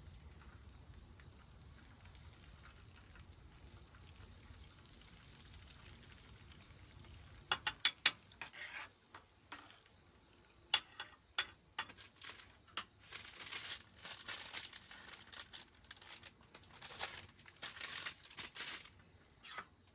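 Faint steady background, then about halfway through three sharp clicks in quick succession, followed by irregular clinks, crinkling and rustling of objects being handled close by.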